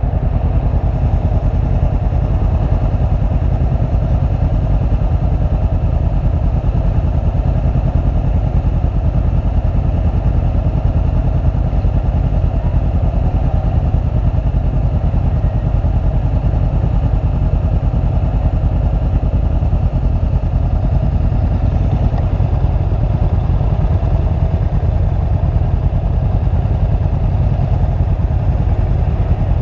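Motorcycle running at a steady speed on the road: a constant low rumble with no revving up or down.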